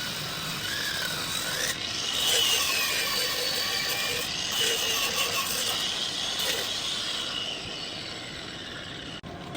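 Lathe turning a metal pulley: the cutting tool squeals in a high pitch that wanders up and down over the machine's running noise. The sound breaks off abruptly about nine seconds in.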